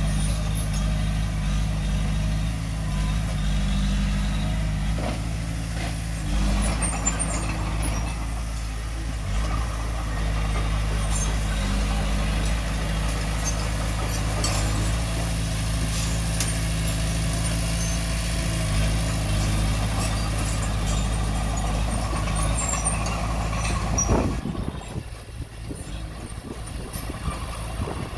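Diesel engine of heavy earthmoving equipment running steadily, with scattered clicks and clanks over it. About 24 seconds in there is a sharp loud hit, and after it the sound drops quieter.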